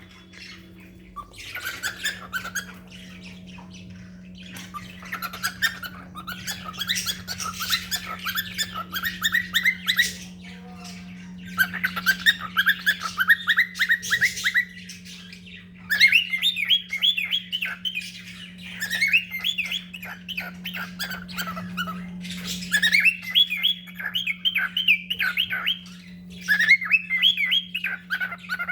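Pet cockatiels chirping in quick chattering runs of several seconds each, with short pauses between, over a steady low hum.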